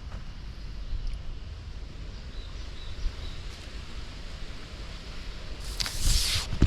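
Low wind rumble on the microphone outdoors, with a short burst of rustling near the end.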